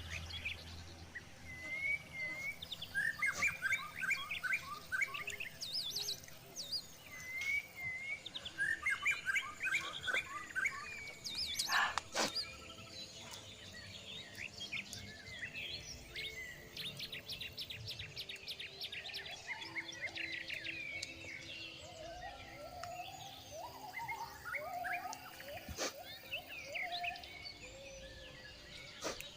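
Several wild birds calling and singing, with repeated quick chirping phrases and trills. There is a sharp knock about twelve seconds in and another near the end.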